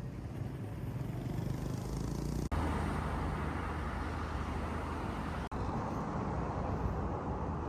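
Road traffic noise: a steady rush of passing motor vehicles with a low rumble. The sound cuts out abruptly twice, for a split second each time.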